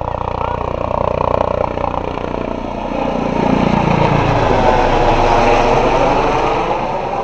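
Eurocopter EC135 twin-turbine police helicopter running in flight: rotor and turbine noise with a fast even beat, getting louder to a peak about two-thirds through and then easing off, with a tone dropping in pitch just before the loudest part.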